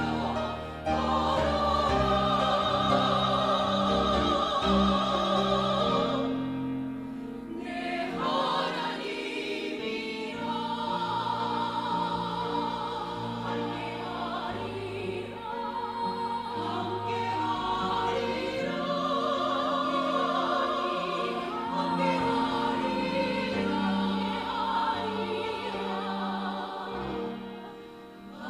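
Small vocal ensemble singing a sacred song in harmony, the voices held with vibrato, with a brief softer passage about seven seconds in.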